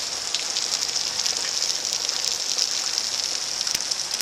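Steady rain falling on a street and yard: an even hiss with fine ticks of individual drops.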